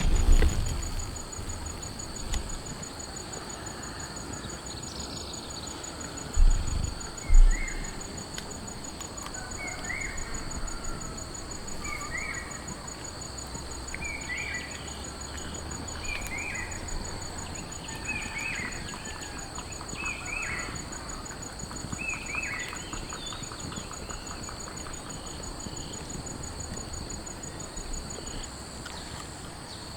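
Outdoor nature ambience: a steady high insect drone, with a bird repeating a short chirp about every two seconds for some fifteen seconds. Two dull low thumps come about six and seven seconds in.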